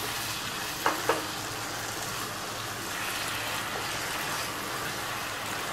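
Okra frying on high flame in hot mustard oil in a wok, sizzling steadily as a little added water cooks off, while a wooden spatula stirs it; two quick knocks of the spatula on the pan about a second in.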